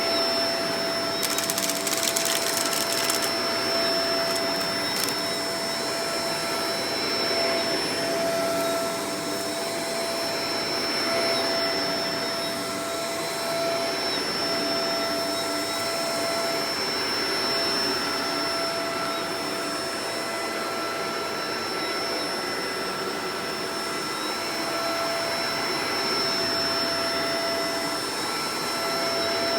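Shark Professional Powered Lift-Away DLX (NV586) upright vacuum cleaner running steadily, a constant motor whine over rushing air that swells and eases a little. A brief crackling rattle about a second in.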